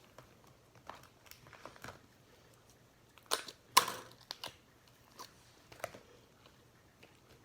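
Small objects being handled on a table: scattered light taps and clicks, with two sharp, louder clicks about halfway through.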